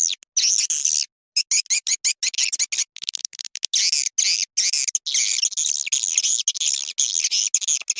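Recorded swiftlet lure calls: dense, rapid high-pitched twittering chirps broken by frequent abrupt gaps, the kind of 'calling sound' played to draw edible-nest swiftlets into a bird house.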